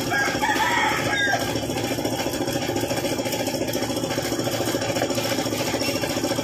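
Suzuki F6A three-cylinder engine idling steadily with a fast, even beat.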